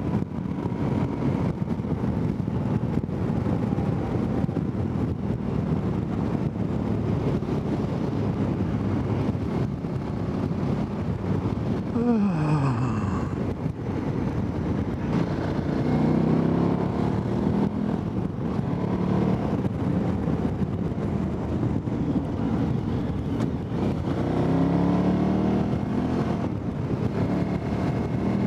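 KTM 990 Adventure's V-twin engine running under way, with heavy wind noise on the microphone; the engine note rises under acceleration twice in the second half, and a sharply falling whine passes about twelve seconds in.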